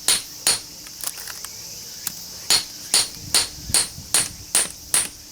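Hammer blows on a steel chisel driven into a small transformer's iron core to force the copper winding loose, ringing metal on metal. Two blows come near the start, then after a pause a steady run of seven at about two and a half a second. A constant high-pitched chirr of insects runs underneath.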